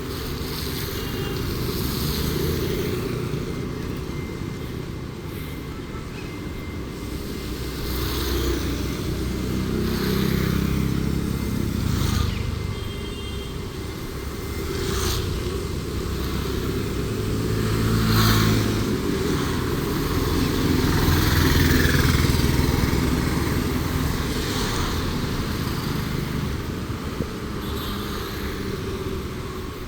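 Road traffic: motorcycles and cars passing one after another over a steady traffic hum, with several vehicles swelling louder as they go by.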